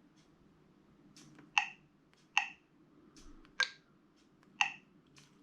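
Xgody truck sat nav's touchscreen giving short electronic click tones as its menu buttons are pressed, four clear ones roughly a second apart, with fainter taps between them.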